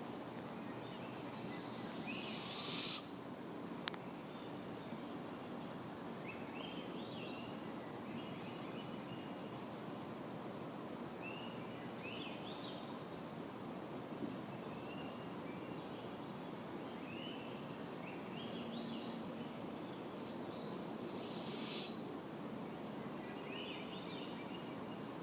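Barred owl giving a high, raspy screech that rises in pitch, twice, about twenty seconds apart. Faint short chirps of other birds can be heard between the screeches.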